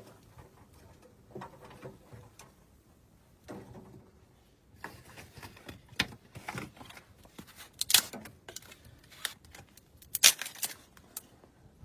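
Irregular knocks, clicks and rustling of objects being handled, busier in the second half with two sharper knocks about eight and ten seconds in.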